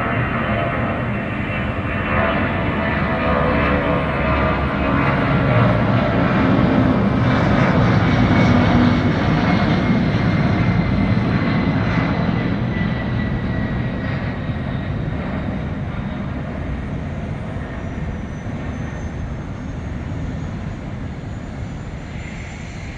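Boeing 757-200 freighter's twin turbofan engines at takeoff power, growing louder to a peak about eight seconds in and then slowly fading as the jet passes and climbs away, with a high engine whine that falls slowly in pitch.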